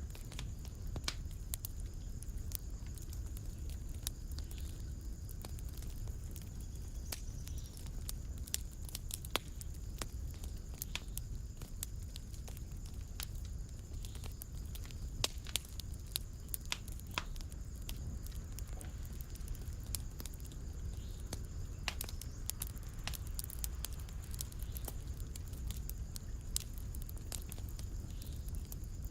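Fireplace fire crackling: a steady low rumble of flames with irregular sharp pops and snaps, a few louder than the rest.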